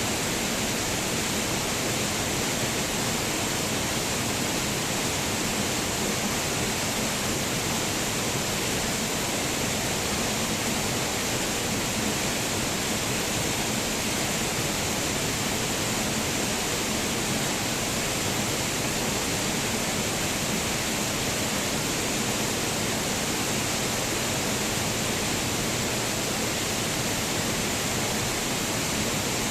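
Waterfall rushing: a steady, even roar of falling water with no changes.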